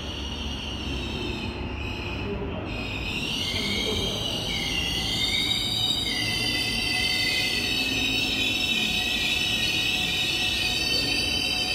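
Electric commuter train arriving at the platform and braking, its running rumble growing louder. From about three seconds in, high squealing tones from the wheels and brakes waver in pitch as it slows.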